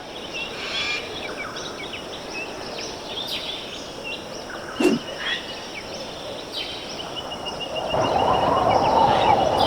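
Rainforest ambience with several birds chirping and trilling, one series of quick repeated notes in the second half. A sharp click about halfway through, and a louder rushing noise builds over the last couple of seconds.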